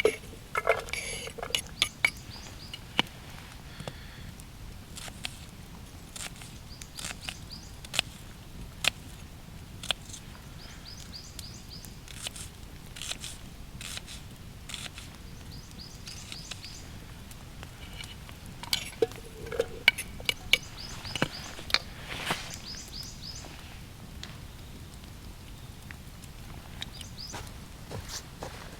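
Scattered sharp clicks and knocks with some crunching, as of hands working with wood or gear. They come thickest right at the start and again about twenty seconds in, a few of them with short squeaky scrapes.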